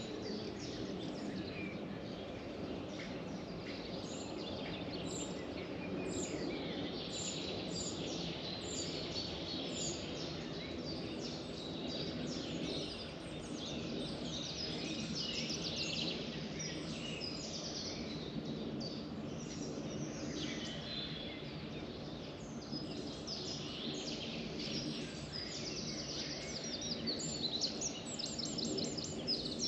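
Several wild birds singing together in a dense chorus of quick chirps, trills and short whistled phrases, over a steady low background noise.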